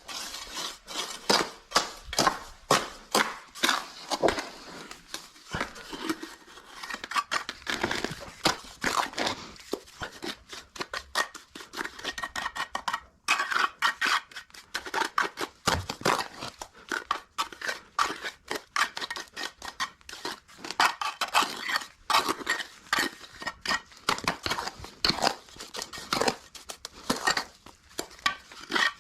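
A trowel scraping and spreading wet cement mortar over a rough surface, in a quick run of irregular strokes.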